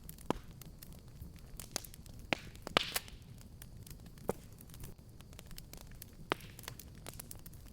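Wood fire burning in a fireplace, crackling with scattered sharp pops over a low steady rumble, with a louder burst of snaps a little under three seconds in.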